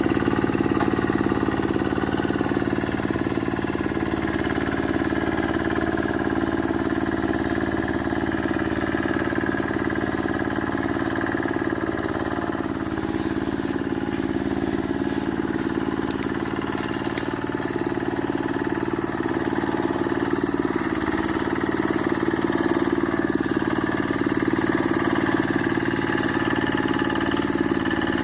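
Quick G1000 two-wheel hand tractor's engine running steadily under load while clearing scrub, holding an even pitch, with a few faint crackles about halfway through.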